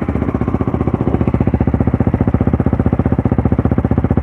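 Trail motorcycle engine idling steadily close by, with an even, rapid beat.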